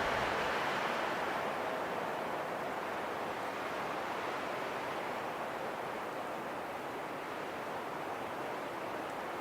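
Steady wind rushing with no gusts or clicks. It eases off gradually through the middle and swells slightly again near the end.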